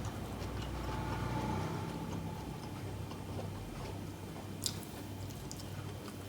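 Close-miked chewing and mouth sounds of a person eating, with faint scattered clicks and one sharp click about two-thirds of the way in, over a steady low hum.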